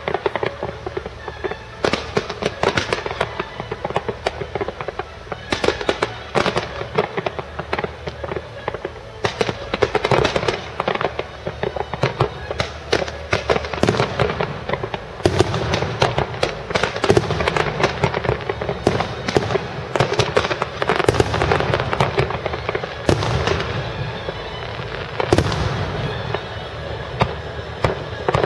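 Fireworks display going off in a dense, continuous barrage of shell bursts, bangs and crackling, many sharp reports close together.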